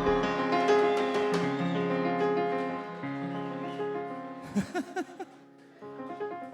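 Keyboard holding sustained chords that slowly die away, with a new chord struck near the end.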